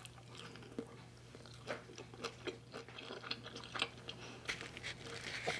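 Close-up mouth sounds of a person chewing a mouthful of sticky rice with steamed fish roe and dill, a run of small, irregular wet clicks, over a steady low hum.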